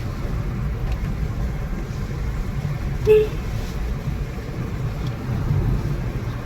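Steady low rumble like a vehicle running or moving, with one brief pitched blip about three seconds in.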